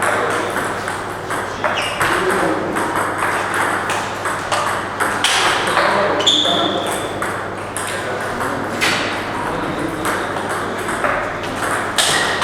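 Table tennis balls clicking off paddles and tables in irregular rallies, with background chatter and a short high squeak about six seconds in.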